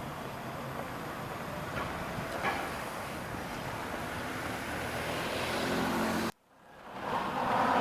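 Tram running on street track, a steady rolling noise that slowly grows louder with a couple of faint clicks. It breaks off abruptly near the end, and a tram's electric motors fade in as a steady hum of several tones.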